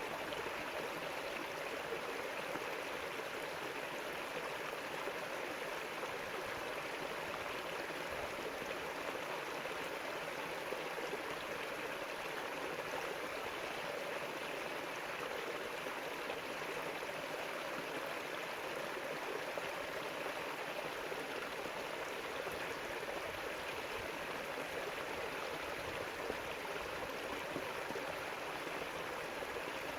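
River water flowing steadily over its bed: an even, continuous rushing and gurgling.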